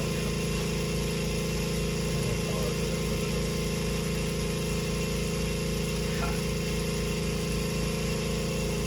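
A motor running steadily: a constant, even mechanical hum that does not change in pitch or level.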